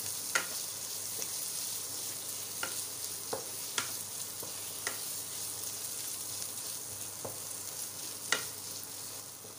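Mashed boiled potatoes and spices frying in hot oil in a kadhai, a steady sizzle, while a wooden spatula stirs and scrapes them through the pan. The spatula knocks against the pan a few times, the sharpest knock near the end.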